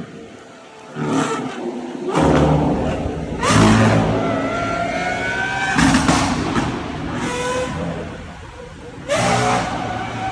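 Sports car engines revving hard and accelerating, several times in a row: each pull starts suddenly and the engine note climbs in pitch before dropping back.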